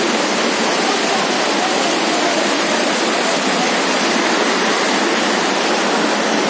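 Floodwater rushing past in a fast, heavy flow: a steady, unbroken noise of running water.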